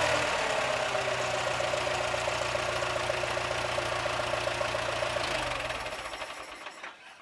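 International 340 utility tractor engine running steadily, then dying away and stopping near the end.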